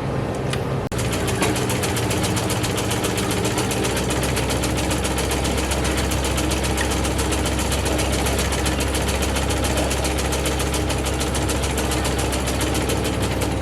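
Restored antique sewing machine running steadily, its mechanism making a rapid, even ticking over a constant hum.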